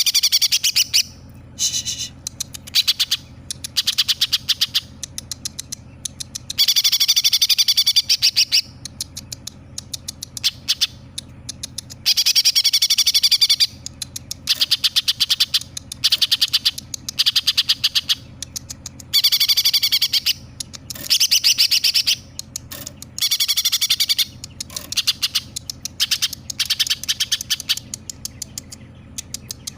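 Greater green leafbird (cucak ijo) singing loudly in rapid, chattering phrases of fast repeated high notes, a second or two each with short breaks between, mimicking house sparrow chirps strung together with kingfisher calls.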